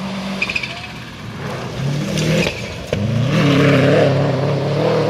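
Rally car engine revving hard on a special stage, its pitch rising and falling with throttle and gear changes, growing louder from about three seconds in as the car comes close.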